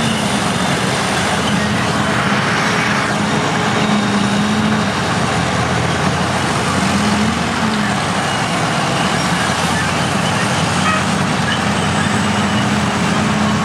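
Vintage crawler bulldozer engines working. The engine note rises and falls as the machines take load and ease off.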